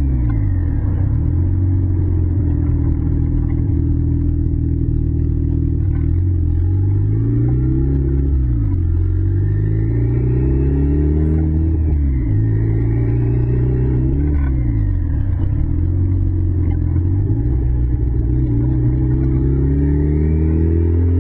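Car engine and exhaust heard from inside the cabin while driving, its pitch climbing as the car speeds up and dropping as it eases off, several times over.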